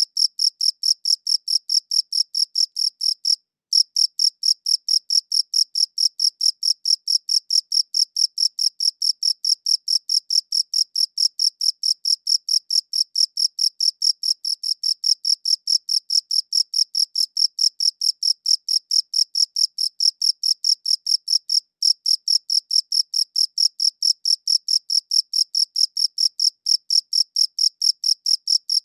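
A cricket chirping in a fast, even, high-pitched pulse train, breaking off for a moment about three and a half seconds in and again briefly later on.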